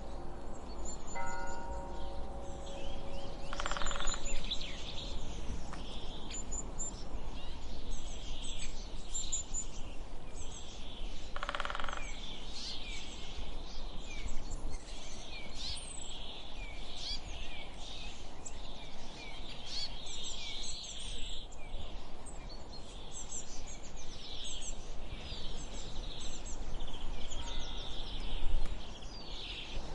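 Many small birds chirping, with short, quick calls repeating throughout over a steady low rumble. A few steady tones sound along with the birds at first and stop about four seconds in.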